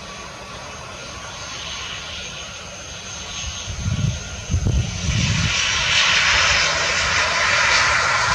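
ATR 72 turboprop airliner's twin Pratt & Whitney PW127 engines with their high whine, growing much louder about halfway through.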